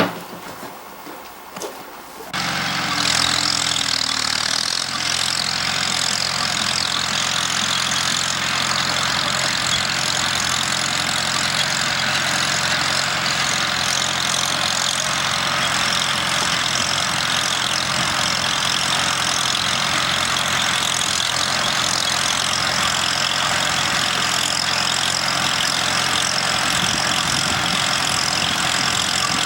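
An engine or machine motor running steadily, cutting in abruptly about two seconds in.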